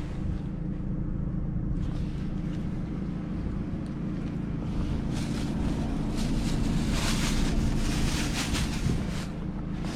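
Wind rumbling on the microphone, with gusts adding a rushing hiss from about halfway through.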